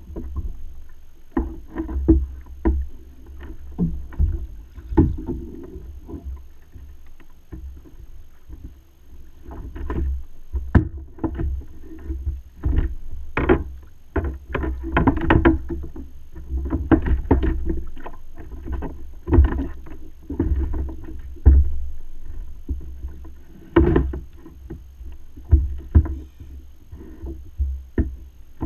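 Water slapping and sloshing around a kayak, with many irregular knocks and splashes against the hull over a steady low rumble.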